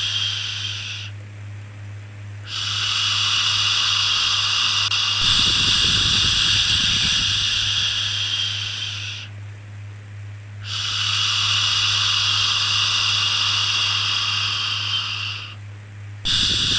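Long, steady 'shhh' shushing, repeated like slow breaths to soothe a baby. A shush fades out about a second in, a long one runs from about 2.5 to 9 seconds, another from about 11 to 16 seconds, and a new one begins just before the end. A steady low hum runs underneath.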